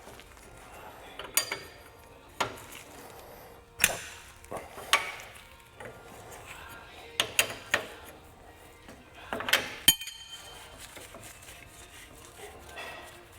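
Hand tools clinking and knocking on metal, a wrench working a large bolt and nut, in about a dozen irregular sharp strikes.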